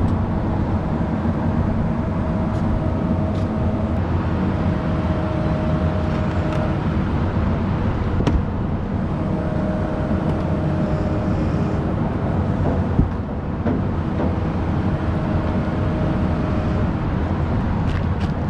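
Machinery running steadily with a low, engine-like rumble. A thin tone comes and goes every few seconds, and there is a single sharp click about eight seconds in.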